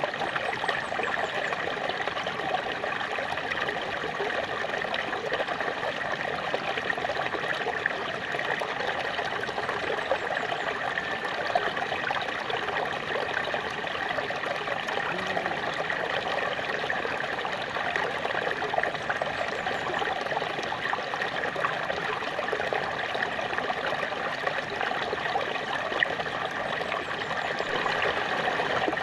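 Small waterfall running steadily: an even rush of falling water with small irregular splashes and trickles.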